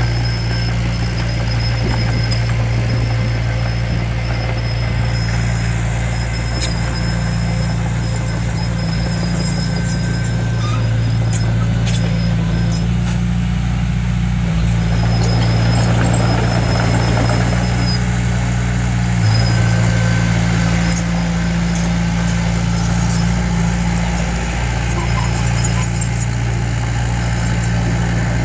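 Diesel engine of heavy construction equipment running steadily, with an on-and-off high-pitched squeal and scattered clicks over it.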